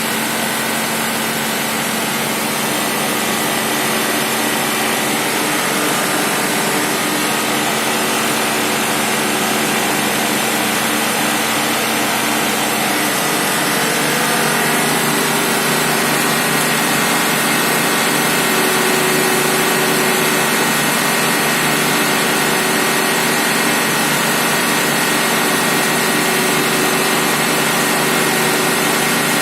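MS12-250M1 CNC milling machine running through its machining program: a steady mechanical whine with several held tones, which shift about thirteen to fourteen seconds in.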